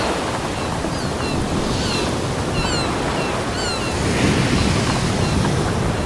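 Ocean surf washing steadily onto a beach, swelling slightly later on. A series of short, high, falling chirps sounds over it for a few seconds.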